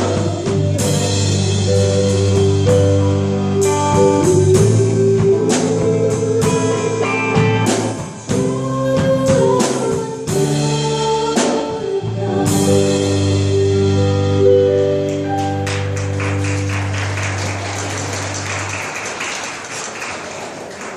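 Live cover band playing an instrumental passage with bass, guitar and drum kit, with no singing; near the end the bass note stops and the song fades on a held chord and a wash of cymbals.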